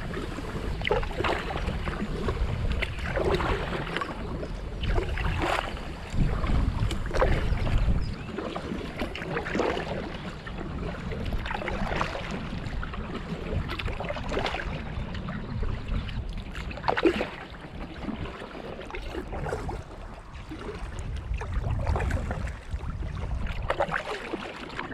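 Kayak paddle strokes splashing into the water at a steady pace, about one every two seconds, with wind rumbling on the microphone that gusts stronger now and then.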